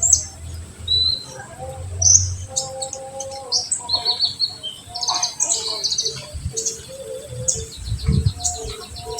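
Kolibri ninja (a sunbird) singing in full 'tembakan': a dense run of quick high-pitched chirps and rapid trills, with a few lower whistled notes mixed in. Near the end there are a couple of short low rumbles.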